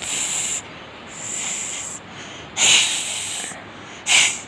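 A child imitating a snake, hissing through the teeth four times, with the third hiss the loudest and the last one short and sharp.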